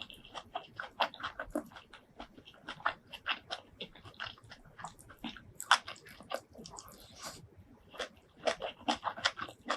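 Close-miked eating sounds: chewing with many quick, wet mouth clicks and a few brief sucking hisses.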